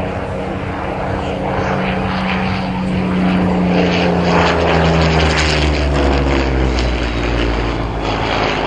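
Spitfire Mk IIa's Rolls-Royce Merlin V12 engine flying past. It swells to its loudest midway, then drops in pitch as the aircraft passes and moves away.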